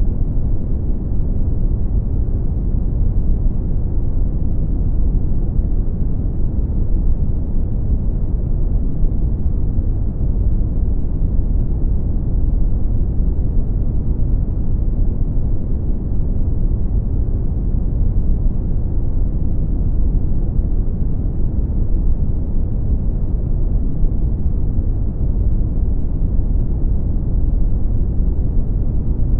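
Brown noise: a steady, deep rumbling hiss with most of its energy at the low end and little above the upper midrange, unchanging throughout.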